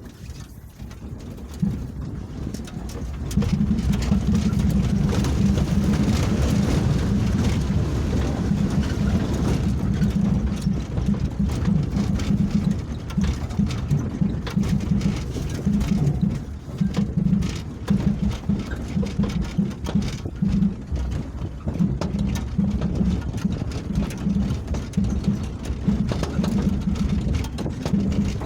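A vehicle's engine running while driving over a rough road, with a heavy low rumble of engine, road and wind noise. It grows louder about three seconds in and then holds steady.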